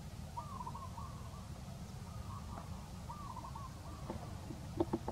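A bird calling: short phrases of a few wavering notes, repeated about every second, over a steady low rumble, with a few sharp clicks near the end.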